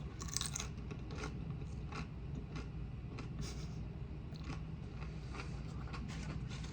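Close-miked chewing and biting of food, a run of short, irregular crunches and mouth sounds, with a louder crunch right at the start over a low steady hum.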